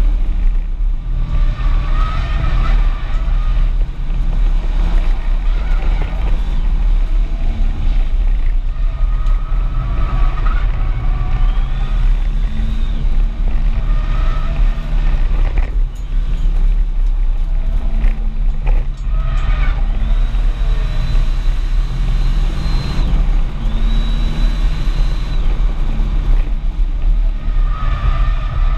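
Audi S4 engine and tyre/road noise heard from inside the cabin while it is driven hard round a race circuit. The engine note rises and falls through gear changes and braking, with short dips where the throttle is lifted.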